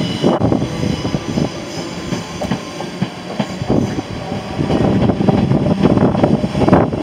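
Yellow Merseyrail electric multiple unit moving along the platform road, its wheels rumbling and clicking over the rail joints. It grows louder in the second half.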